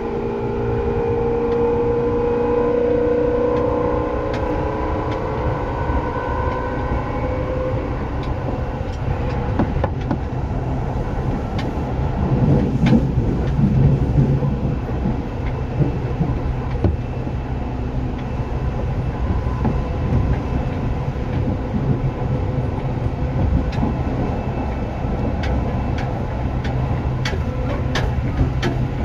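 Seibu 2000-series electric train, set 2057F, running, heard from on board. A whine of several tones from the traction motors and gears fades away over the first several seconds. After that the train runs on with a steady rumble, a few heavier knocks around the middle, and scattered sharp clicks from the wheels on the rails.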